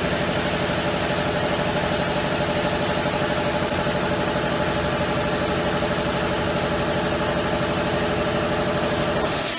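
Motors and blades of a double-head aluminium cutting saw running steadily, a hum with a high whine. Near the end a hiss starts as the motor note begins to fade.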